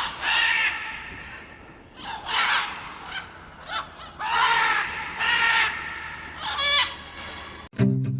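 Macaws giving harsh, raspy squawks, about five calls with pauses between them. Plucked-string music cuts in near the end.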